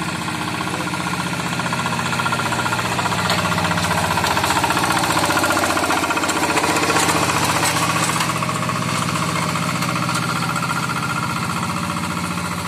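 Single-cylinder diesel engine of a paddy-field hand tractor running steadily under load while tilling dry ground, a little louder for a few seconds in the middle.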